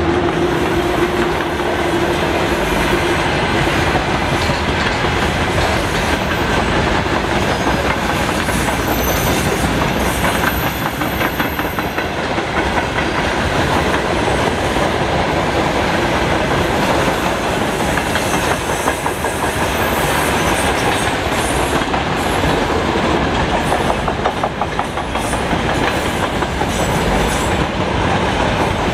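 Freight train wagons rolling past at speed: a continuous rumble with wheels clacking over rail joints in spells. A steady hum from the passing VL10 electric locomotive fades out over the first few seconds.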